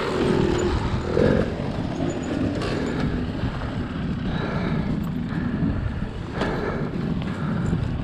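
Two-stroke dirt bike engines running.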